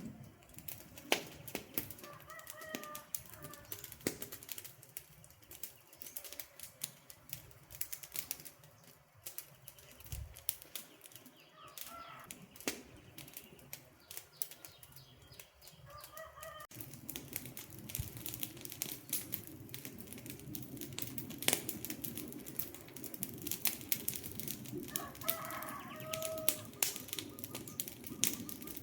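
Wood campfire crackling with frequent sharp pops and snaps, and a bird calling four short times. About halfway through, a low rushing hiss from the fire comes up and stays.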